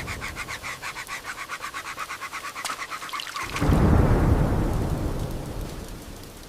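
A quick, even patter of about six pulses a second, then, about three and a half seconds in, a low thunder rumble swells up and fades away.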